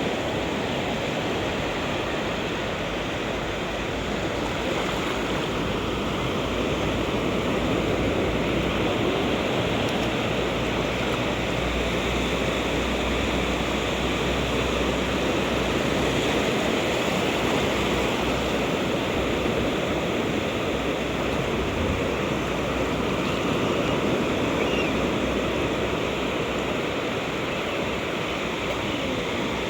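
Sea surf washing in and out, a steady rushing noise.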